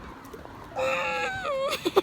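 A high-pitched voice, starting about three-quarters of a second in, wailing with its pitch sliding up and down.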